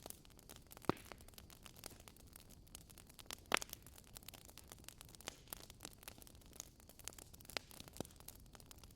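Wood fire crackling in a fireplace: irregular sharp pops and snaps over a soft hiss, the loudest pops about a second in and about three and a half seconds in.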